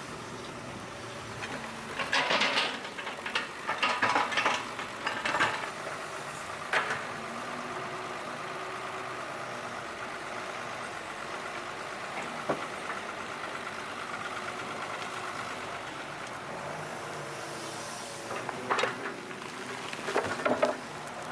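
Excavator engine running steadily, with loud bursts of clattering about two and four seconds in and again near the end, and a couple of single knocks between.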